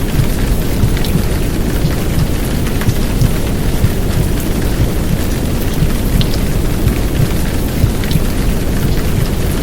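Heavy downpour rain, a steady dense hiss with scattered drop ticks, mixed over a deep low rumble of simulated womb sound.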